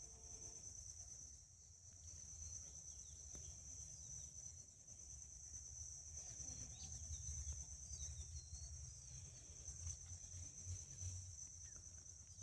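Faint, steady high-pitched chorus of crickets or other insects, with a few short bird chirps in the middle, over a low rumble.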